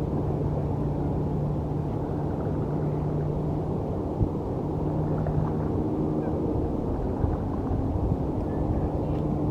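Steady low drone of distant city traffic and engines, with a couple of held humming tones, a single sharp tick about four seconds in, and faint bird chips barely above it.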